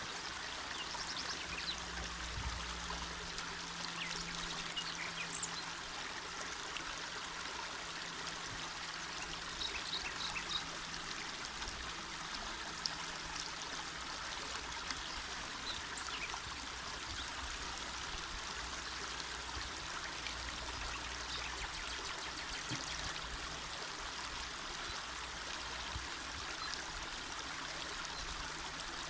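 Small mountain river flowing steadily: a continuous, even rush of water.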